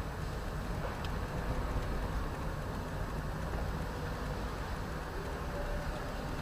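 Steady road and engine noise of a moving car heard from inside the cabin, with a faint tick about a second in.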